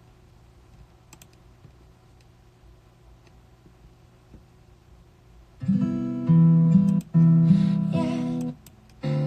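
A few faint clicks, then acoustic guitar chords starting about five and a half seconds in, each held and ringing, stopping twice briefly before picking up again.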